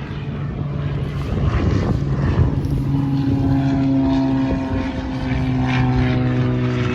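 Seaplane's propeller engine droning steadily, its hum growing stronger about three seconds in.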